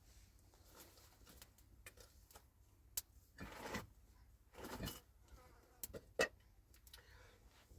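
A few scattered light knocks and short rustling noises of things being handled, the sharpest knock about six seconds in.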